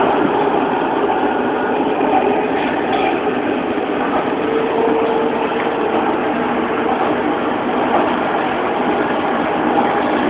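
Santiago Metro Line 4 train running between stations: a steady rolling rumble and rush, with a faint whine rising out of it for a second or two in the middle.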